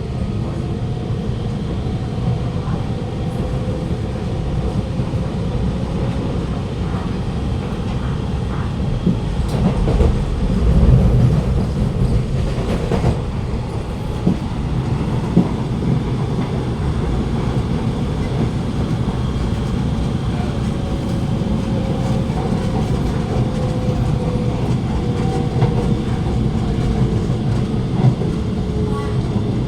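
Alstom Movia R151 metro train running on the line, heard from inside the carriage: a steady rumble of wheels on track with a traction-motor whine that slowly slides in pitch, swelling louder about ten seconds in and falling in pitch over the last several seconds.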